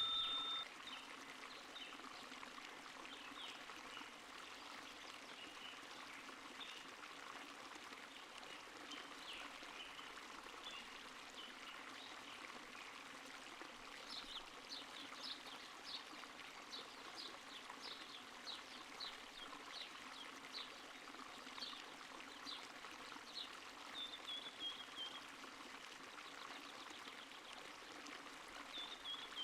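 A small stream running and trickling, faint and steady. Short high-pitched chirps repeat about twice a second through the second half.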